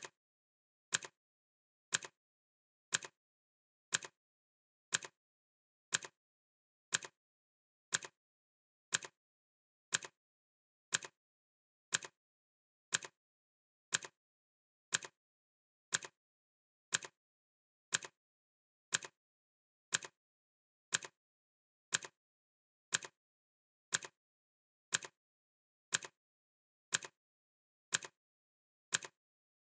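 Clock ticking sound effect: crisp, even ticks at one per second, steady and unchanging.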